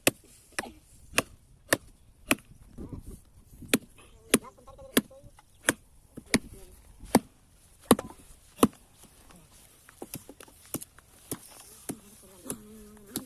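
A steady series of sharp blows, about one every 0.6 seconds, then lighter, more irregular taps after about nine seconds.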